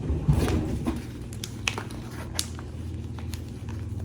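Plastic salami packaging being worked at by hand as it refuses to open, giving scattered small clicks and crinkles over a steady low hum.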